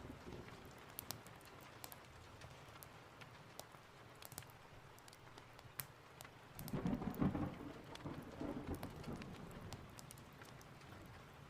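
Steady rain with sharp ticks and crackles throughout. A low rumble of thunder fades out at the start, and another rolls in about seven seconds in, dying away over a couple of seconds.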